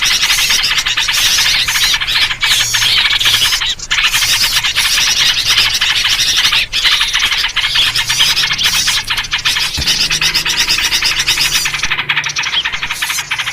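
Dense, continuous chorus of small birds chattering and calling all at once, a noisy lure recording used to attract birds, in a version built around yellow-vented bulbul (trucuk) calls.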